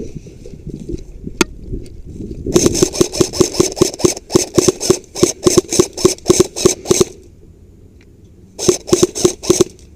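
Airsoft gun firing two strings of rapid shots: a long run of about six shots a second, then a pause and a shorter burst near the end.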